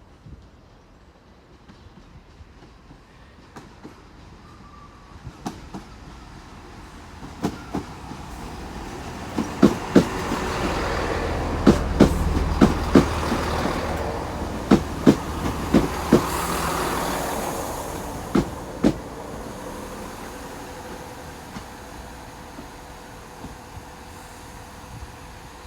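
Class 166 Turbo diesel multiple unit running into the station. Its wheels click over the rail joints, often in pairs, as the rumble swells to a peak about halfway through, then fades as the train slows. A steady engine hum remains near the end.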